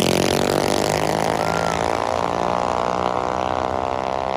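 Mini bike engine winding down off the throttle at the end of a drag-strip pass, its pitch falling slowly and steadily as it gets quieter.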